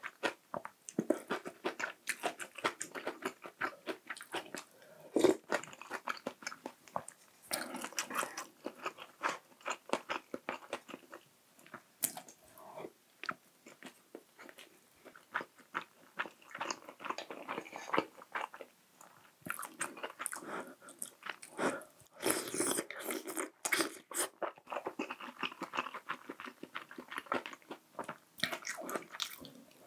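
Close-miked chewing and biting of food, many quick irregular wet clicks and crunches from the mouth, with a few brief pauses between mouthfuls.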